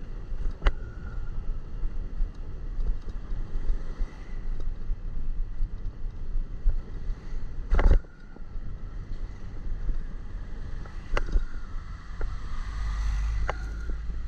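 Wind buffeting the microphone on a moving motorcycle, a steady low rumble with the ride's engine and road noise beneath. A few sharp clicks or knocks cut through, the loudest about eight seconds in.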